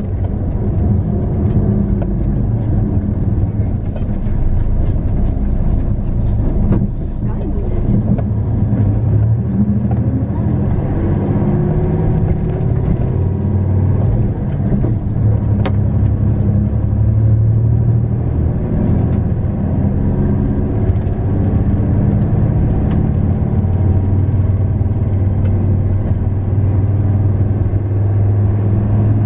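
Diesel engine of a 2001 Hino Melpha 7 bus (KK-CH1JFEA) running as the bus is driven along, with road noise. The engine note rises and falls with speed and gear changes, climbing about ten seconds in.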